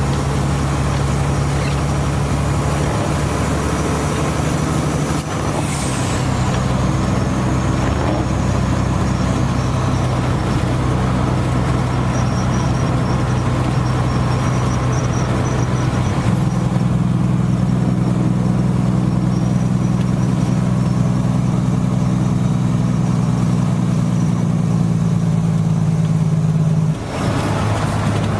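A vehicle engine running steadily at idle, a low, even hum. Its sound shifts about 6 s in and grows fuller about 16 s in, with a brief dip near the end.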